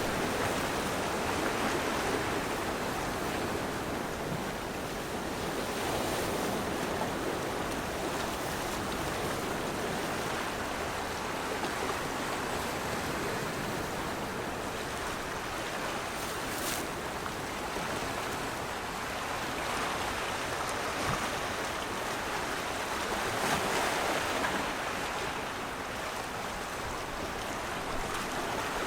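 Rushing water: a steady hiss that swells a little now and then.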